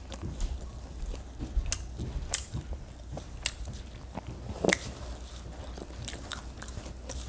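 Person chewing a mouthful of bacon, lettuce, tomato and avocado sandwich on toasted bread, with irregular crisp crunches; the loudest crunch comes about two-thirds of the way through.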